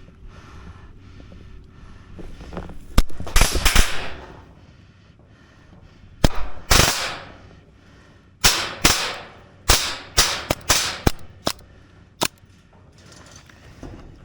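Airsoft guns firing: a short burst about three seconds in, another around six to seven seconds, then a string of single shots and short bursts from about eight to twelve seconds.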